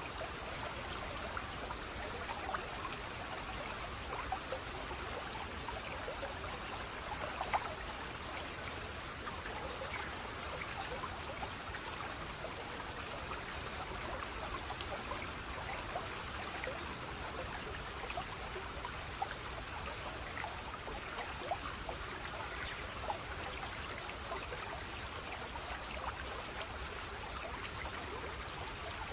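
Running water trickling and burbling steadily, with a constant scatter of small splashes and drips.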